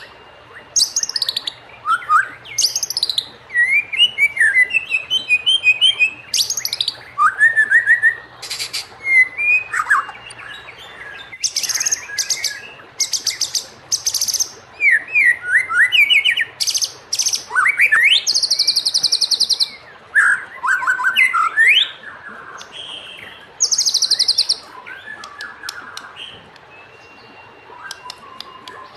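White-rumped shama (murai batu) singing a long, varied song: clear whistled phrases that glide up and down, broken by rapid, harsh, buzzy trills. The phrases come one after another with short pauses, and the bird sings more quietly near the end.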